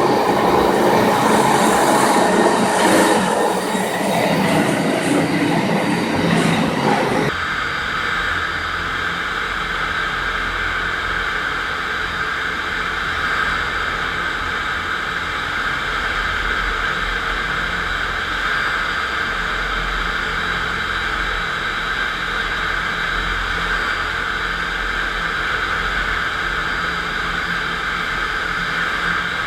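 FastPrep concrete floor grinder running, its diamond grinding plates working a concrete floor with a rough, loud grinding noise. About seven seconds in, the sound changes abruptly to a smoother, steady running noise with a low hum.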